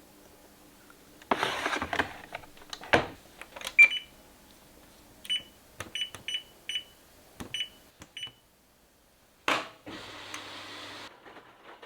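A household appliance's keypad beeping as buttons are pressed: about eight short, high electronic beeps among clicks and handling knocks. Near the end a machine starts with a hum and cuts off abruptly about a second later.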